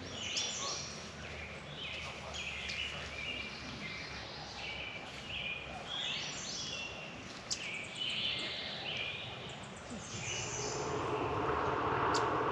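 Songbirds singing, a run of short, quick chirping phrases one after another. Over the last couple of seconds a steady rush of noise swells in underneath.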